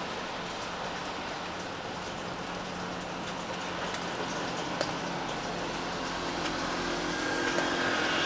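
Steady rain with scattered sharp drip clicks. In the second half a motor's low rumble and steady hum grow louder.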